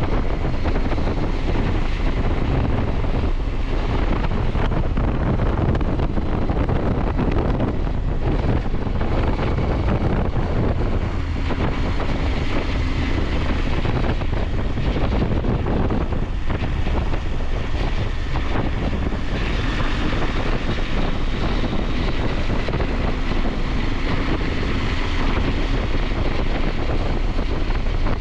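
KTM 890 Adventure's parallel-twin engine running steadily under way, buried in heavy wind noise on the microphone.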